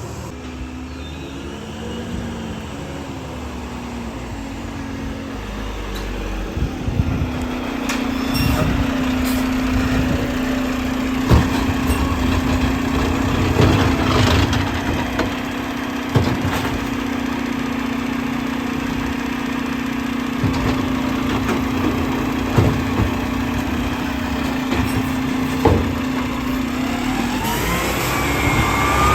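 Garbage truck running its packer cycle: the engine is held at a steady raised speed for about twenty seconds while the hydraulics compact the load, with scattered clunks and knocks from the trash and packer. Near the end the engine drops back and its pitch glides up again as it moves off.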